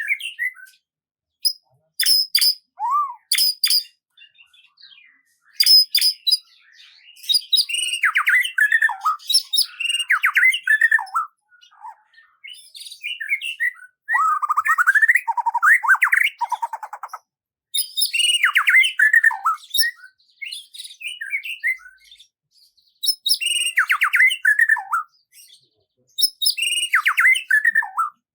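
Songbirds singing: repeated phrases of chirps, trills and quick whistled glides, with short pauses between them.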